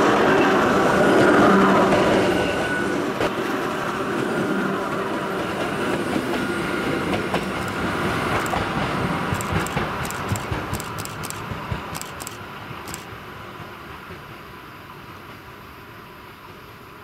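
Hakone Tozan Railway electric train passing close by, a steady hum with wheel and rail noise. It then pulls away and fades, with a run of sharp wheel clicks on the rails about halfway through.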